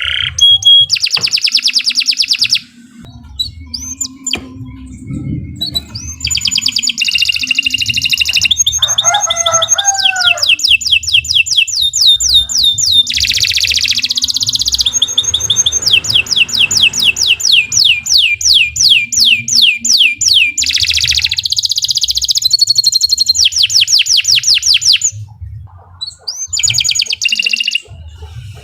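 Domestic canary singing a long, loud song of rapid trills, many quick repeated notes per second, broken by short pauses.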